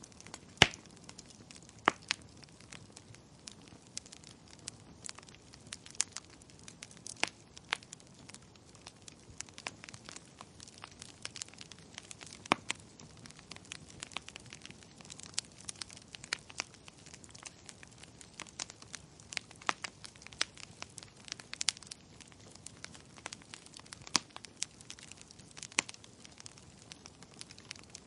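Wood fire crackling in a fireplace: irregular sharp pops and snaps over a faint steady hiss, with a loud pop about half a second in.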